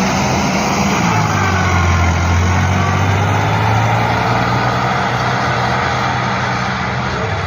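Sonalika DI 745 tractor's diesel engine running steadily with a deep, even hum.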